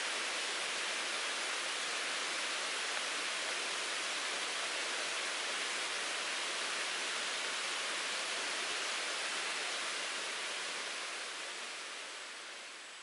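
Mountain stream running, a steady rushing hiss of water; it fades down over the last couple of seconds.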